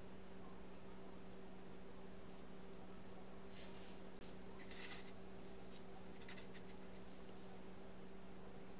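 Paintbrush strokes of gouache on paper: short scratchy brushing sounds in a few clusters through the middle, the loudest about five seconds in, over a steady low electrical hum.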